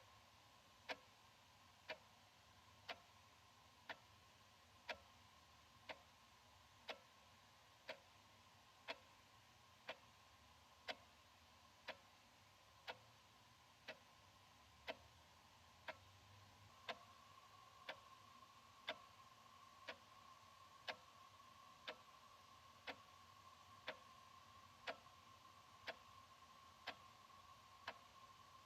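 Analog wall clock ticking steadily, one tick a second. Under the ticks is a faint steady high hum that gets a little louder about halfway through.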